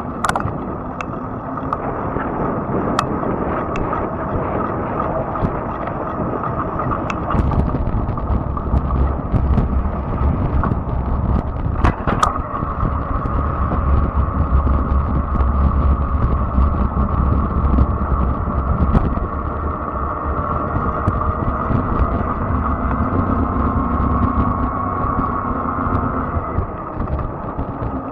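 Riding noise from a fat-tire electric bike: a steady whine over continuous tyre and road noise. A heavier low rumble, like wind buffeting the microphone, comes in several seconds in and eases off later, with a few sharp clicks.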